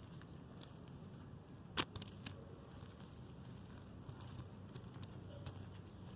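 Reformed gym chalk being crumbled and pressed by hand: soft crunches and scattered crackles, with one sharp crack a little under two seconds in.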